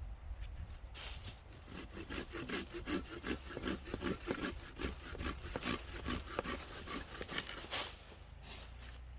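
Hand saw cutting through wood with steady back-and-forth strokes, stopping near the end.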